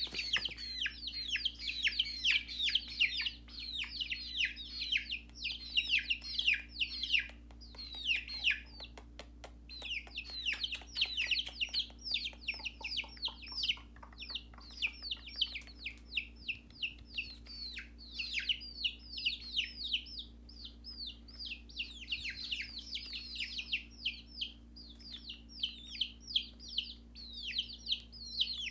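Chicks peeping without pause: rapid, high, downward-sliding peeps, several a second and overlapping, from more than one bird, over a faint steady hum.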